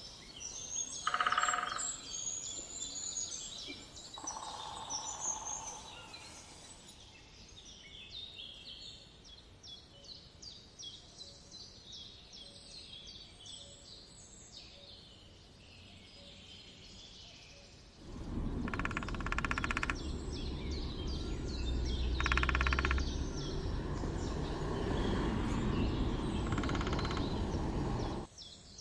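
Woodpecker drumming in short, rapid rolls, heard several times, over steady chirping of small songbirds. About two-thirds of the way through, a louder low rumble comes in suddenly and cuts off abruptly shortly before the end.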